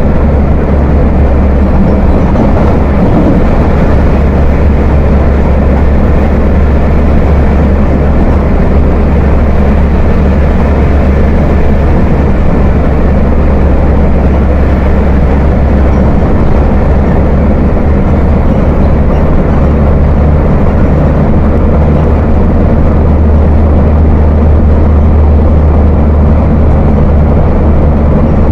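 Diesel engine of a Volkswagen 17.230 OD bus chassis running steadily with a deep, heavy rumble (a 'ronco grosso'), swelling slightly near the end.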